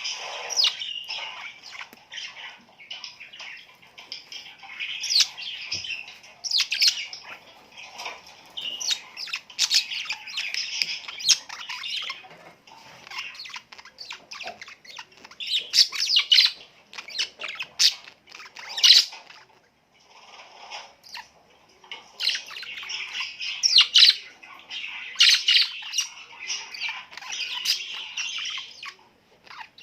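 Small birds chirping and squawking together in a busy chorus of short, high, overlapping calls, with a brief lull about twenty seconds in.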